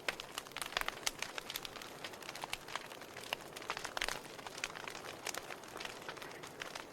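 Wood fire of burning logs crackling, with irregular sharp pops and snaps over a soft steady hiss of flames.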